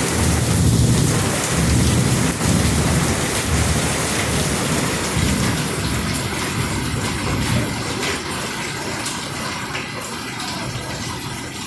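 Heavy rain with strong gusting wind, the gusts rumbling low on the microphone in waves; it eases gradually toward the end.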